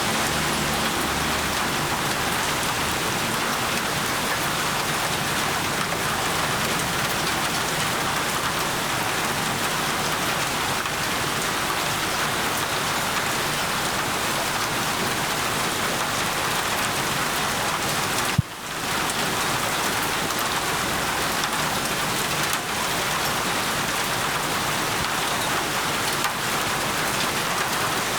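Steady heavy rain falling on a surface, an even, dense hiss. About two-thirds of the way through there is a single sharp click and a momentary drop in level.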